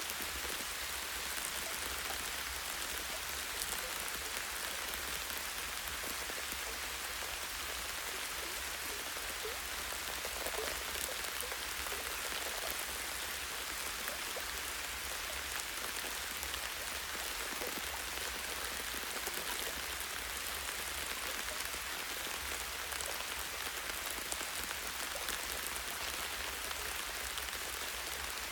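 Light rain falling steadily on forest leaves and branches, an even hiss of many small drops with scattered individual taps. A steady low rumble runs underneath.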